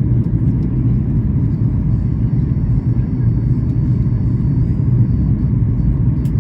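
Steady low rumble of cabin noise inside a Boeing 737 MAX 8 on the ground after landing, its engines idling as it taxis. A faint click near the end.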